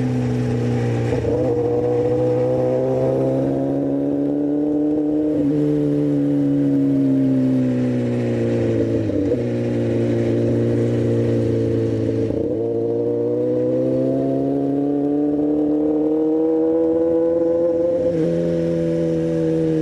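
Motorcycle engine running under way, its pitch climbing and falling in long, slow swells, with a brief break in the tone about five times.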